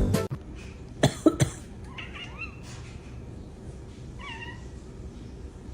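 Pet cat vocalising: a couple of short, sharp sounds about a second in, then faint meows about two and four seconds in.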